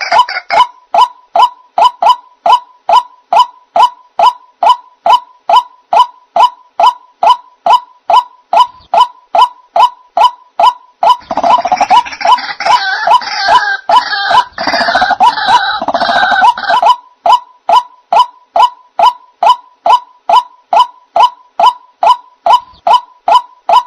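White-breasted waterhen (ruak-ruak) calls played as a bird-trapping lure: a short note repeated about twice a second. A louder, harsher burst of overlapping calls joins in from about halfway through for some six seconds.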